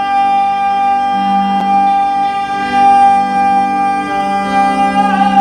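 Male singer holding one long, high sung note on the word 'mine' over a steady, sustained accompaniment.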